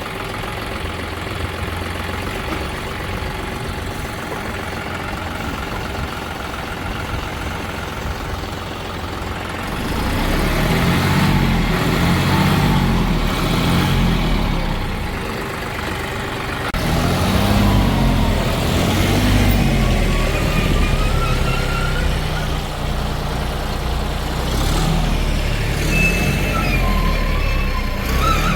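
Heavy diesel engine idling steadily, then revving up and down repeatedly from about ten seconds in, as when working under load. Near the end a faint, thin whine rises and falls above it.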